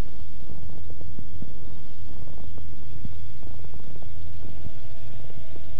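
Cessna 172's engine and propeller droning steadily in the cockpit on the approach to land, with light clicks and rattles, and a thin steady tone joining about four seconds in.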